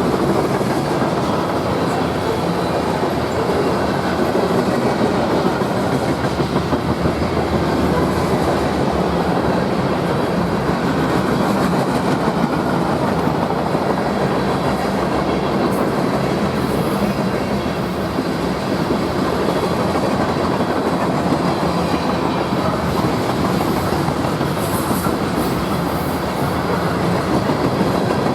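A train rolling steadily past on the rails, its wheels clattering over the track joints without a break.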